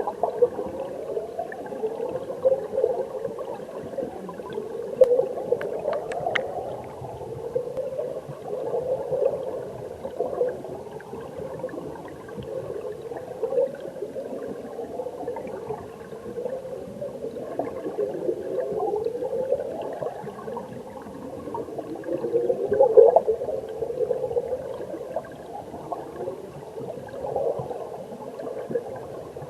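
Mountain stream heard from underwater: a steady churning gurgle with repeated rising, whistle-like sweeps and one sharp click about six seconds in.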